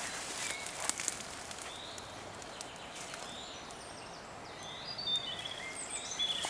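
Small birds chirping in short, scattered calls over quiet riverside ambience, with a few brief rustles about a second in.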